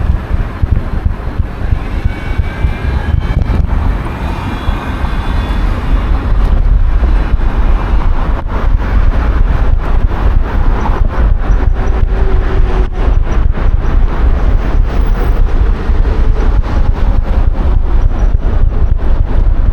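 Wind buffeting an action camera's microphone on a moving bicycle, a heavy steady rumble with frequent small knocks, over road traffic noise. A faint pitched whine comes and goes a few seconds in.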